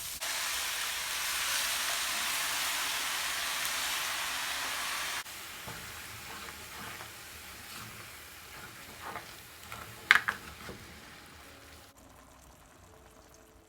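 Shredded chicken and chipotle sauce sizzling in a frying pan with oil and onion while being stirred. The loud hiss drops suddenly about five seconds in to a quieter sizzle, with a few utensil clicks and a sharp knock around ten seconds in.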